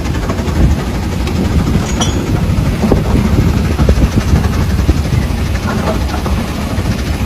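1904 Best 110-horsepower two-cylinder steam traction engine running: a steady low rumble with scattered light knocks.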